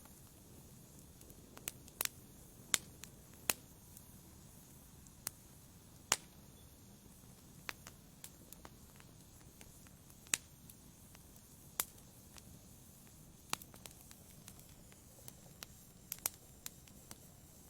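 Wood fire burning in a fireplace: sharp crackles and pops at irregular intervals, roughly one a second, over a soft steady low hiss.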